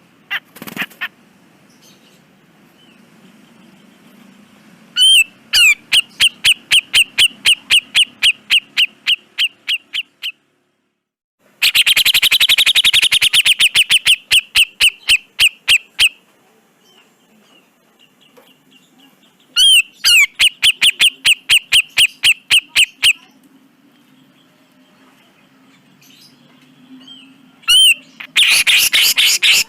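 Cucak jenggot (grey-cheeked bulbul) calling in bouts of rapid, harsh repeated notes, about four a second, each bout lasting a few seconds, with short pauses between the four bouts.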